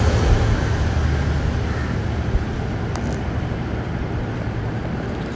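Onion-and-spice masala frying in a large steel pot, a steady sizzling hiss with a low rumble underneath, as a steel spoon stirs and scrapes it; one sharp clink about three seconds in.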